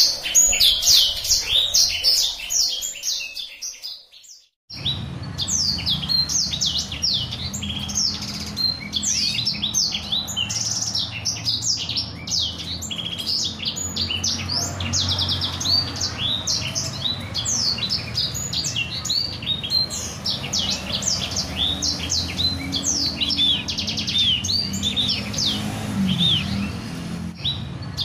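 A small songbird (a 'blacksang') singing a fast, continuous rolling song of high chirps and trills, the kind of song played as a tutor for canaries to learn. The song fades and breaks off for a moment about four seconds in, then runs on over a faint low hum.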